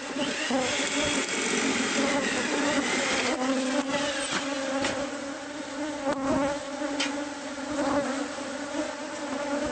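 Swarm of honeybees buzzing in a steady, dense hum of many wings at slightly differing pitches, with a few sharp clicks.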